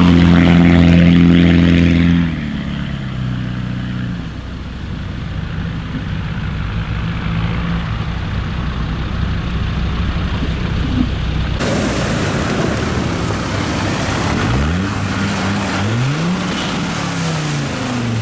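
Off-road 4x4 engine working under load, loudest for the first two seconds, then easing to a steadier, quieter run. Near the end it revs up several times in quick rising sweeps.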